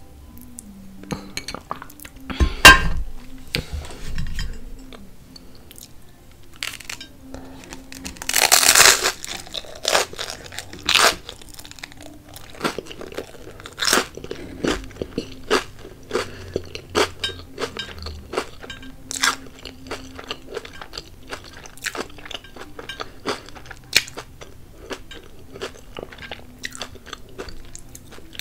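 Close-miked chewing of crunchy avocado toast: repeated crisp crunches and mouth clicks, with a loud crunch of a bite about nine seconds in. A heavy thud about two and a half seconds in is the glass juice bottle being set down on the plate.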